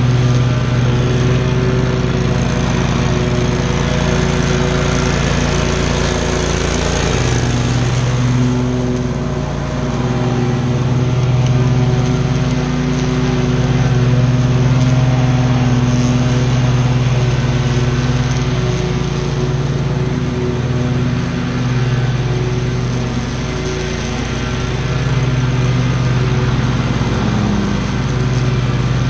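Commercial lawn mower's engine running steadily at high throttle while cutting tall grass, its pitch wavering slightly now and then.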